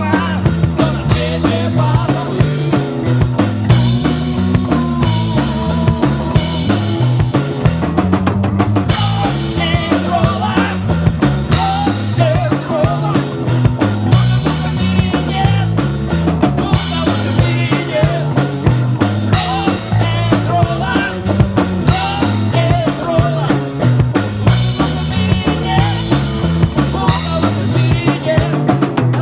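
Live rock-and-roll band playing an instrumental stretch: electric guitar, bass walking through a steady pattern, and a drum kit keeping a driving beat with rimshots.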